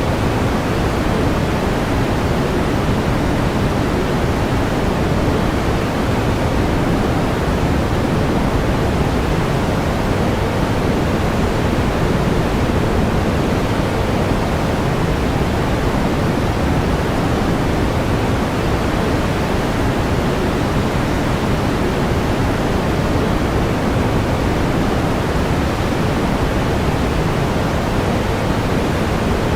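Steady pink noise: an even, unchanging hiss, strongest in the low end and fading toward the highs.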